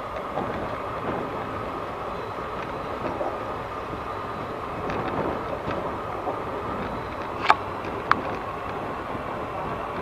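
Passenger train of the 12155 Bhopal Express rolling slowly into a station, heard from inside a coach: a steady running rumble of wheels on rail, with two sharp clicks a little over half a second apart about three quarters of the way through.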